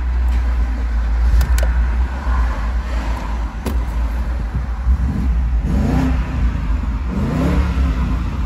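BMW 645Ci's 4.4-litre V8 starting and running at idle, then revved twice, the pitch rising and falling each time, in the last few seconds.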